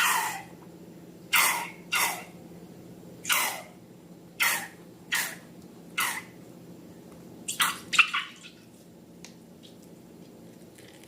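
Slime squelching wetly as it is squeezed and handled: about eight short sticky squelches, roughly one a second, ending with a quick cluster, then only faint ticks.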